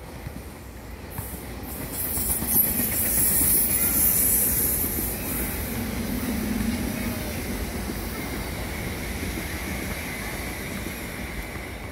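SEPTA Regional Rail electric commuter train passing at speed: a steady rumble of wheels on rail with a high hiss. It builds over the first two seconds, is loudest a few seconds in, then eases a little toward the end.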